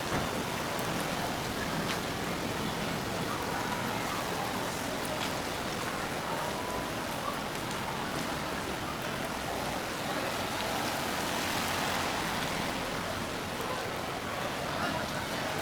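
Steady rain falling on a street: an even, continuous hiss with scattered faint drop ticks.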